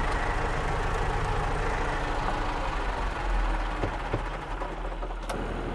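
Tractor engine running steadily with a low rumble, and one sharp click about five seconds in.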